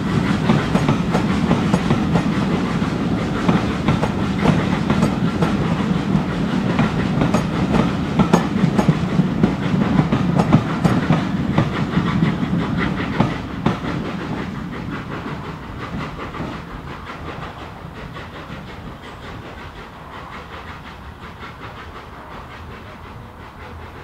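Steam-hauled passenger train passing, its wheels clacking over the rail joints over a low rumble; loud for about the first half, then fading steadily as the train draws away.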